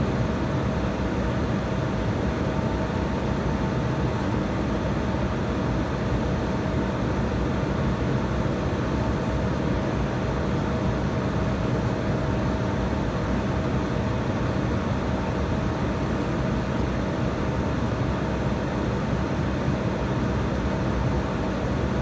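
Jet airliner cabin noise: the engines run steadily with a constant rush of air and a low hum, plus a thin steady tone throughout, with no change in level.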